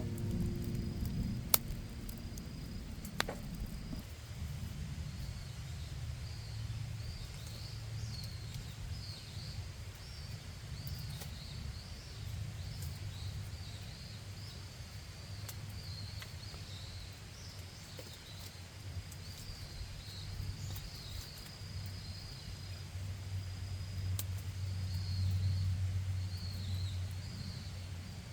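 Night insects chirping in short repeated trills over a steady low rumble, with a couple of sharp cracks near the start.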